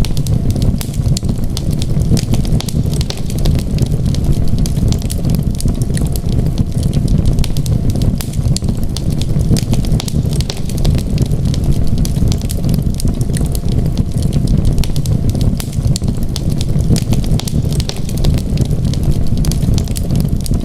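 Wood fire crackling in a fireplace: frequent small, irregular pops and snaps over a steady low rumble.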